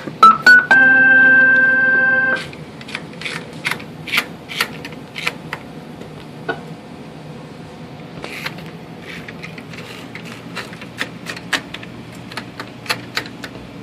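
Hammond A-100 tonewheel organ sounding two short notes and then a held chord that cuts off about two and a half seconds in. After that come scattered quiet clicks and knocks.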